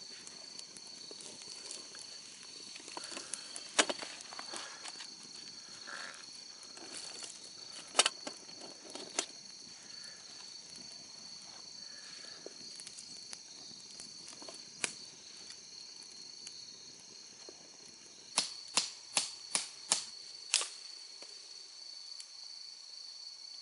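Insects droning steadily at a high pitch, with scattered sharp clicks and a quick run of six clicks near the end.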